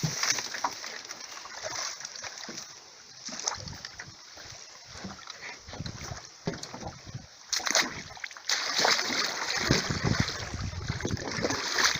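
Small wind-driven waves splashing irregularly against the shore, in uneven surges that grow a little louder past the middle.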